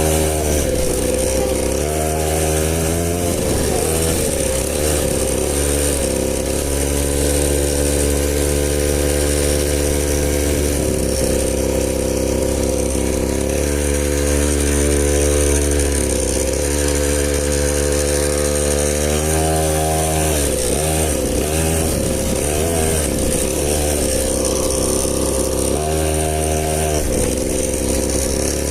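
Small 50cc dirt bike engine running hard, its pitch holding steady for stretches, then rising and dropping several times as the throttle and revs change, over a steady low rumble.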